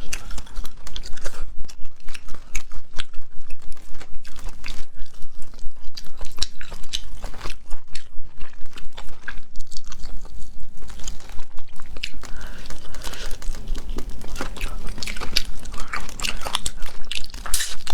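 Close-up eating of shellfish: steady, irregular crunching bites and wet chewing.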